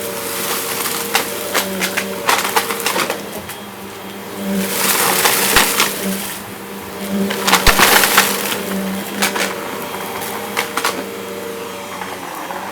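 Vacuum cleaner running over a rug, sucking up crunchy debris with many sharp crackles and clicks. Two louder bursts of rattling come in the middle of the stretch as bigger patches are picked up.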